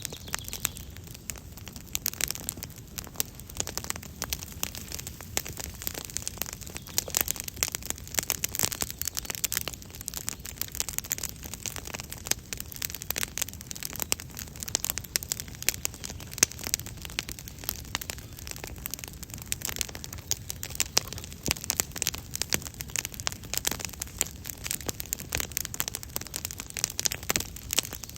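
Campfire crackling: a steady stream of irregular small pops and snaps from burning wood.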